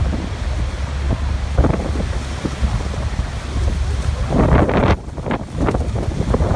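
Waterfall rushing steadily, with wind buffeting the microphone in a deep rumble. The rush surges and falls away, dropping suddenly about five seconds in and then building back up.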